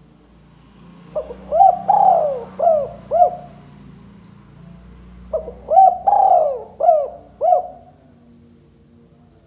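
Spotted dove cooing: two phrases of about five notes each, a couple of seconds apart, with a faint steady high-pitched tone behind.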